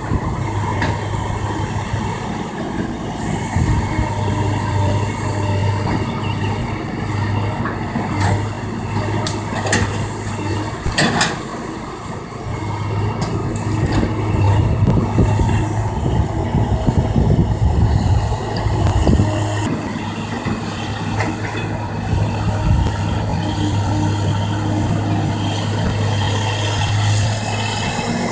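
Kobelco excavator's diesel engine running steadily, with a few sharp knocks near the middle.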